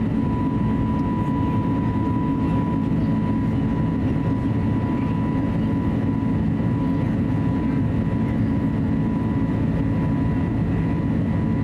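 Steady cabin noise of an Airbus A320neo with its two CFM LEAP-1A engines running: an even low roar with a thin, steady high tone over it.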